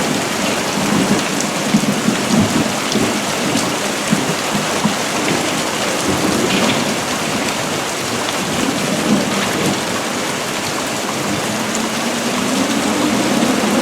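Heavy monsoon rain falling steadily, with thunder rumbling. A low hum rises in pitch near the end.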